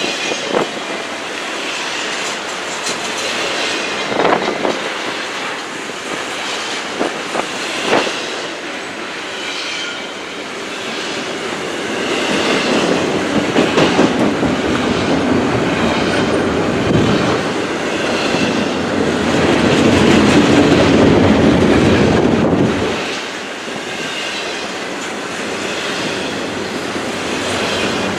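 Double-stack intermodal container train passing close by: steel wheels clacking over rail joints, with a high wheel squeal that comes and goes. The rumble grows louder past the middle, then drops back about four-fifths of the way through.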